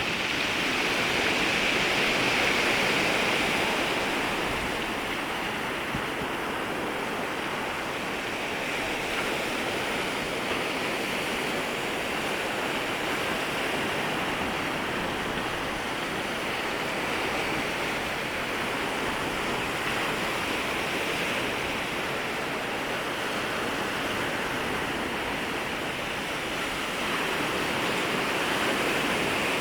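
Waves washing in and out at the shoreline, a steady hiss of surf that swells slightly about two seconds in and again near the end.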